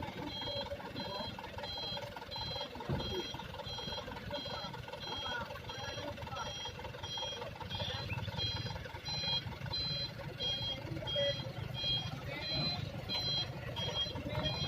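Dump truck's reversing alarm beeping steadily in a two-tone pulse, somewhat under twice a second, over the low running of the truck's engine, which grows louder about halfway through.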